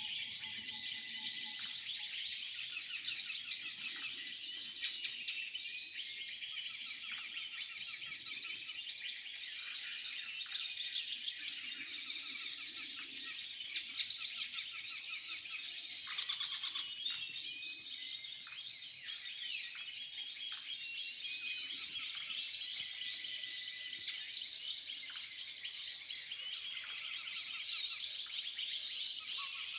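Many birds calling at once, a dense, continuous chorus of overlapping chirps, trills and twitters with a few louder bursts; the birds are stirred up and noisy.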